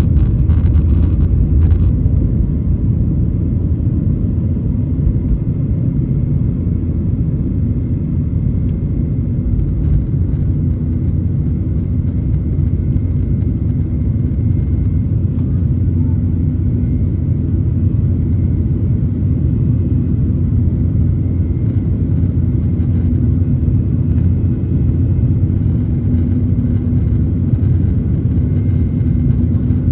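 Boeing 737-900 jet with CFM56-7B engines, a loud, steady low rumble with a faint steady high tone over it.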